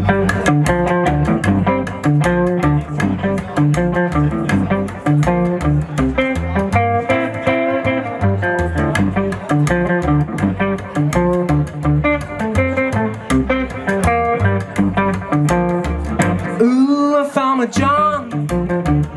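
Live band playing an instrumental passage: guitar and bass guitar over a steady beat. Near the end the bass drops out for a moment.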